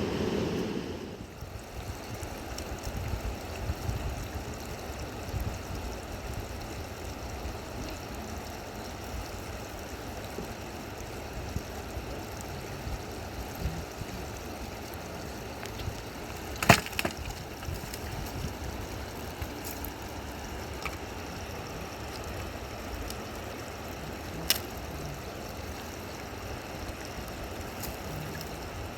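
River water flowing steadily, with a sharp click about 17 s in and another near 25 s.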